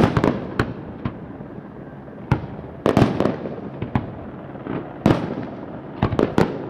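Fireworks going off: irregular sharp bangs, some in quick clusters of two or three, each trailing off in an echo.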